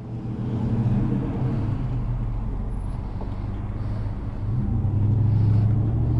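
An engine running steadily at idle, its pitch rising slightly and getting louder near the end.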